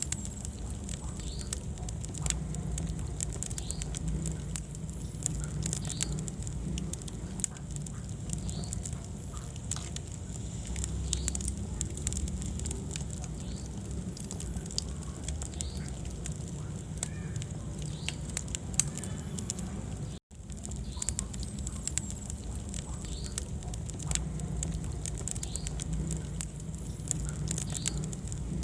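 Wood fire crackling, with frequent sharp pops and snaps over a low, steady rumble of the flames. The sound cuts out for an instant about two-thirds of the way through.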